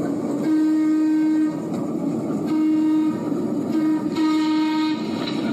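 Interurban streetcar's horn sounding four blasts, the first longest, then a shorter one, a brief one and a long one: the long-long-short-long pattern of a level-crossing signal, over the car's running rumble.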